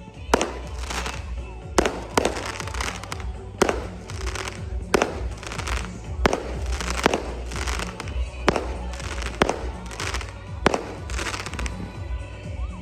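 Fireworks going off in a steady run, a sharp bang every second or so, each followed by crackling. Music plays underneath.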